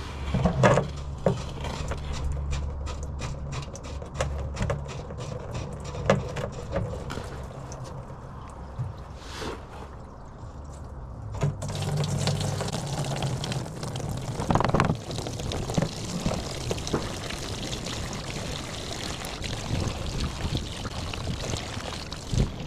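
Diesel fuel draining out of an old truck's fuel tank and splashing steadily into a catch bucket, starting about halfway through. Before it come light metallic clinks over a low hum.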